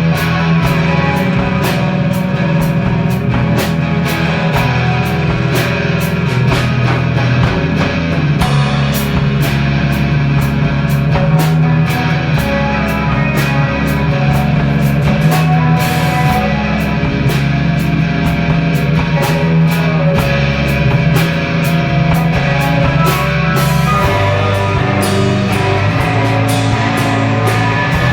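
Indie/alt rock band playing live: electric guitars, bass guitar and drum kit, with steady drum hits running through.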